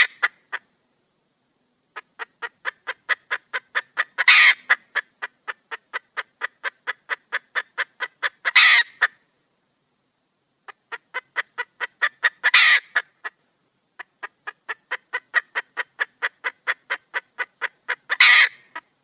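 Red junglefowl hen cackling: runs of evenly paced clucks, about four a second and growing louder, each ending in a loud harsh squawk, four times over with short pauses between. This is the call of a wild hen calling for a male.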